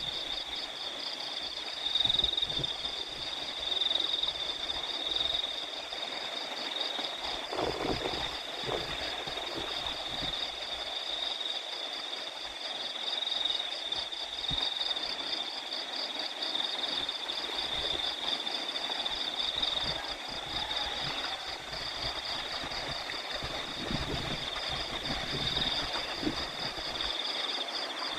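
Crickets chirping in a steady, high, finely pulsing chorus, with irregular low rumbles of wind on the microphone.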